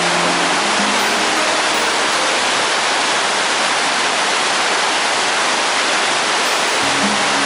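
Waterfall: a steady, loud rush of falling water, with faint background music at the start and again near the end.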